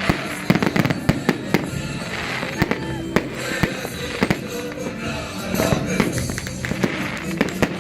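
Fireworks going off in quick succession: many sharp bangs and crackles close together, with music playing underneath.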